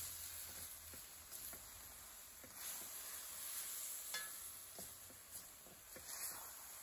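Diced chicken breast sizzling as it browns in oil in an enamelled pan, stirred and scraped with a slotted spoon, with small ticks throughout and a sharper click about four seconds in.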